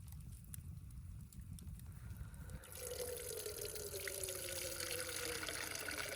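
Water being poured into a vessel, splashing steadily and growing louder about two and a half seconds in, with a gurgling tone that slowly falls in pitch.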